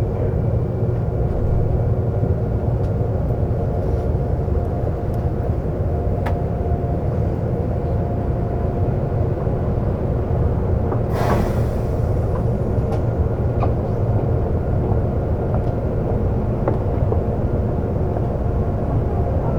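Seoul subway train running, a steady low rumble of wheels on rail with faint steady tones and scattered light clicks, with a short hiss a little past halfway.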